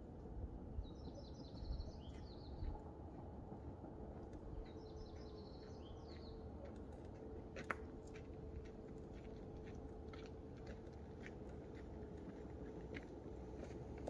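A bird calling twice, each call a quick run of short high notes ending in a downward slur, over a steady low outdoor background noise, with a few faint clicks.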